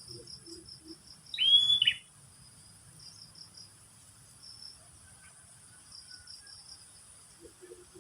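Wild swamp-side ambience. A bird gives one loud, slurred whistled call about a second and a half in, over a steady high insect drone and short repeated insect chirps. Soft low notes repeat a few times at the start and again near the end.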